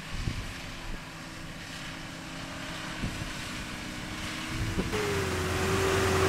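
Mitsubishi Pajero 2.8-litre turbo diesel engine running under throttle on wet grass. The revs climb sharply near the end and hold high as it gets louder, with wind buffeting the microphone.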